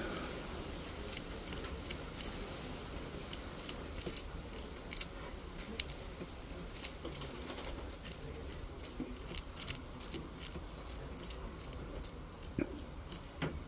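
Light, irregular clicks and taps of small metal pieces being handled and sorted on a jeweler's bench, with a faint steady background.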